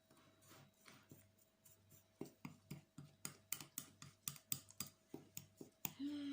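A fork clicking against the side of a dish while stirring cake batter by hand: faint, quick, even strokes at about three a second from about two seconds in.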